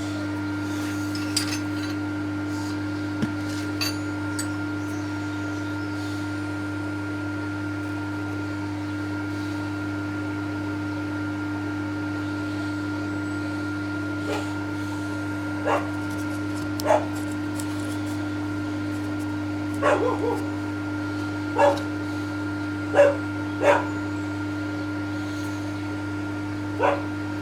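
A dog barks about seven short times, spread through the second half, over a steady machine hum. A few light metallic clinks come in the first few seconds.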